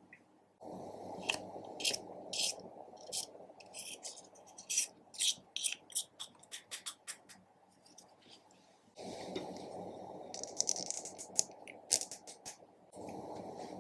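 Slime being mixed and squished by hand, giving a run of quick sticky clicks and pops, with a low rushing noise under them in two stretches.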